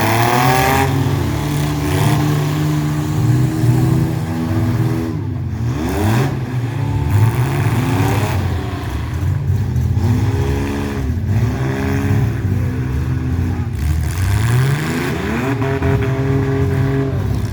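Mini truck engines running hard and revving, their pitch climbing, holding and dropping off several times as the trucks accelerate and slow.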